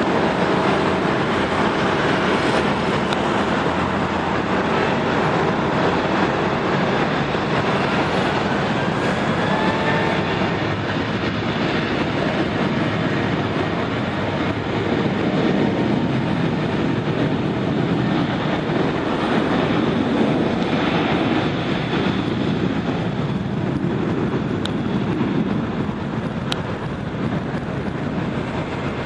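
Boeing 737 on its takeoff roll: jet engines running at takeoff thrust under a steady rush of noise, with the rattling rumble of the wheels on the runway. The sound eases a little near the end.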